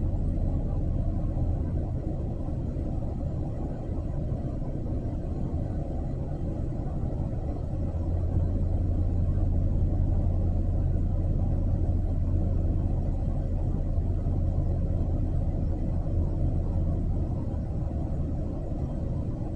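A steady low rumble, strongest in the deep bass, with no distinct events.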